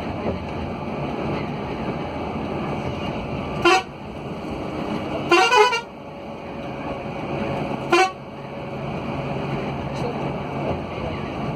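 Vehicle horn blasts over steady road and engine noise: a short honk, then a longer one, then another short honk.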